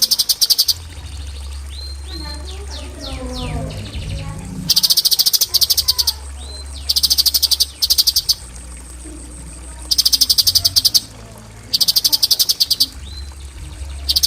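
Cucak cungkok singing in its 'tembakan' style: five loud bursts of very rapid, machine-gun-like repeated high notes, each about a second long, with short rising whistles between them.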